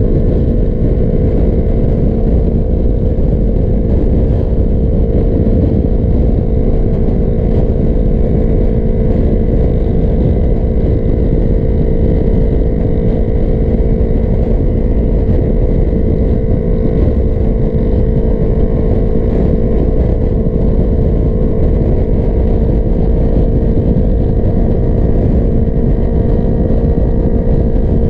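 Sport motorcycle engine running at a steady cruise, its pitch held level, under heavy low wind rumble from riding at highway speed.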